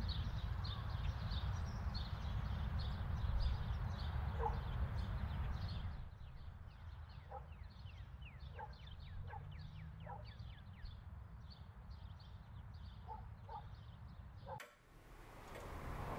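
Small birds chirping in quick, short, falling notes over a low rumble. The rumble drops away about six seconds in while the chirping carries on, with a few lower, short calls mixed in.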